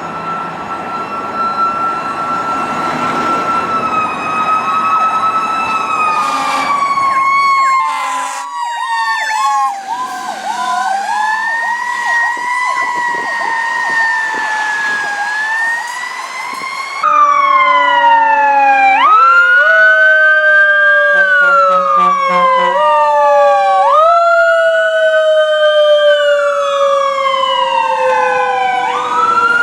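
Sirens of responding fire trucks. A wailing siren slides slowly down in pitch, broken by two short blasts about 6 to 8 seconds in. About halfway through, the sound jumps abruptly to louder siren wails, each rising sharply and falling off slowly about every five seconds, over a steady, slowly falling tone.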